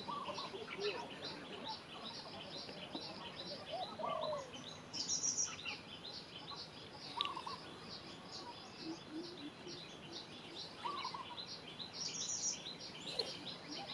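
Several birds chirping and singing: a constant chatter of quick high chirps, with a lower call repeated about every three to four seconds.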